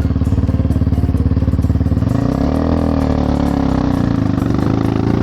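Enduro dirt bike engine running under throttle: steady at first, then revving up and down from about two seconds in as the throttle is worked.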